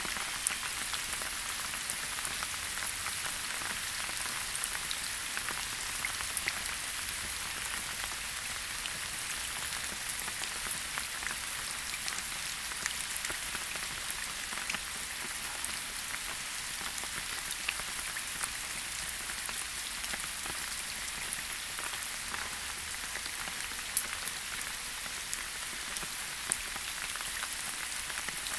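Steady rain falling in a forest, an even hiss with individual drops pattering and ticking sharply on leaves and surfaces.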